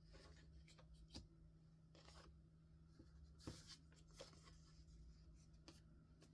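Soft paper rustles and small clicks of paper being handled and cut, with one sharper click about three and a half seconds in, over a faint steady hum.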